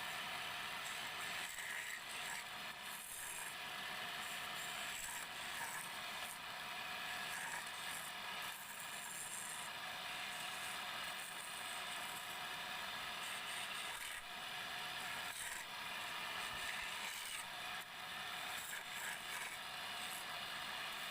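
Wood lathe running while a hand-held turning tool scrapes and cuts the spinning wood: a steady, high scraping noise whose texture keeps shifting as the tool works along the piece.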